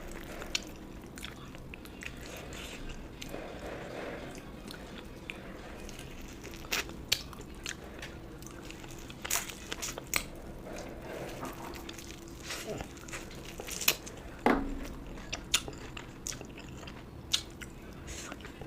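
A person chewing and biting food close to the microphone: irregular sharp mouth clicks and bites, a few louder ones in the second half.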